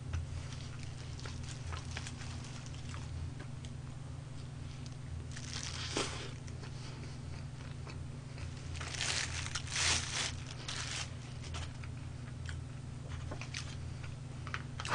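A person chewing and biting crunchy fried chicken close to the microphone, with a few louder crunches around the middle, over a steady low hum.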